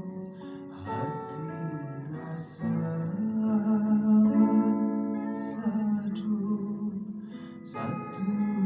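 A voice singing a slow song with long held notes, accompanied by guitar.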